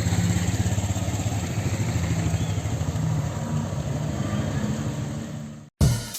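A motor vehicle's engine running steadily over a constant rushing noise. It cuts off abruptly near the end, and music with a drum beat starts.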